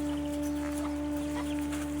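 Chickens clucking in short, scattered calls over one long, steady held note of flute-like background music.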